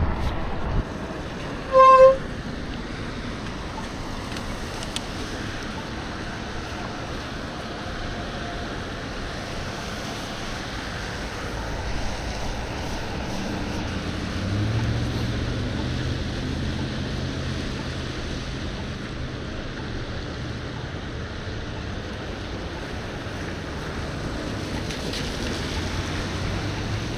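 Steady wind and road rush from riding a bicycle. About two seconds in there is one short, loud, pitched beep. Around the middle, a passing motor vehicle's engine hum swells and fades.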